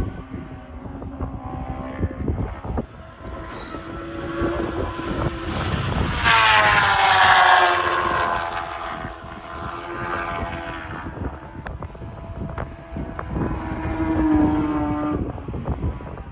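A racing superbike approaching and passing at full speed, its engine note loudest about six to eight seconds in and dropping in pitch as it goes by. A fainter engine rises again near the end.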